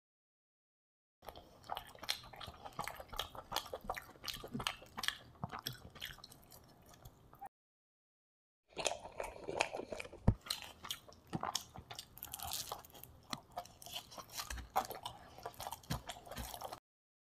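Close-miked chewing of a mouthful of chilly chicken: wet, crunchy mouth sounds with many small clicks and smacks. It starts about a second in and breaks off into dead silence for about a second a little before the middle, then goes on until just before the end.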